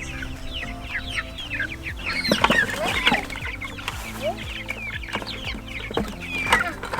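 A crowd of young meat-bird chicks peeping, a dense run of short falling chirps, with a few sharp knocks as they are handled.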